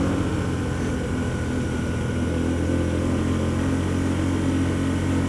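Hyosung GT125R's 125 cc V-twin engine running steadily under way at an even pitch.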